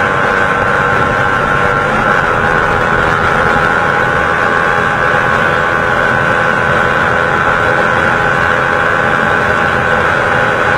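Motorcycle engine running under way, holding a steady pitch, heard from on board the moving bike with wind rushing over the microphone.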